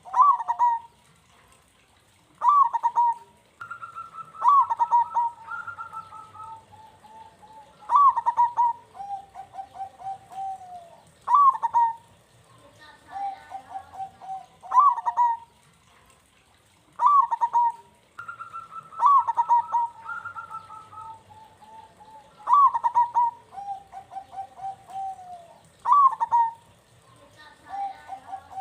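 Zebra dove (perkutut) cooing in repeated phrases about every three seconds, each a sharp rising note followed by a run of quick rolling coos that slide lower.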